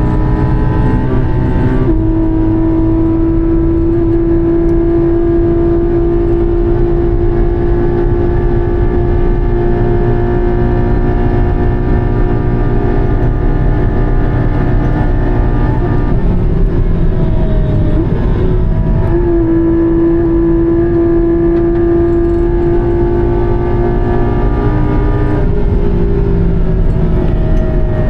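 Porsche 718 Cayman GT4's flat-six engine running hard at high revs, holding a steady pitch for long stretches. The pitch dips and climbs back about two-thirds of the way through, and eases briefly again near the end.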